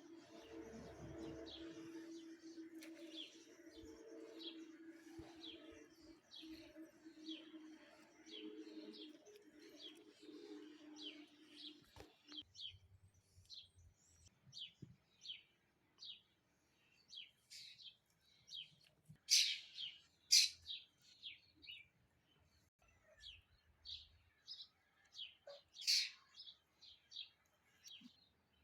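Bird chirping over and over: short high chirps, one or two a second, with a few louder ones in the second half. A steady low hum runs underneath and stops abruptly about twelve seconds in.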